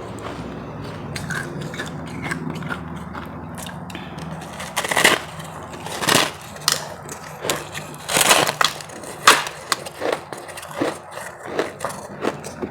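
Close-miked ice being bitten and chewed: after a quieter stretch of small clicks, a string of loud, irregular crunches begins about five seconds in.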